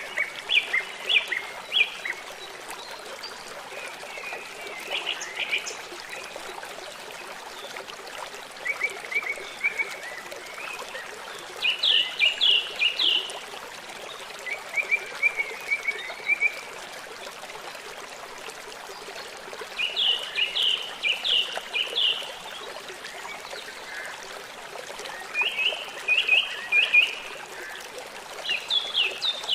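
Stream water running steadily, with a songbird repeating short phrases of quick, sharp chirps about every three seconds.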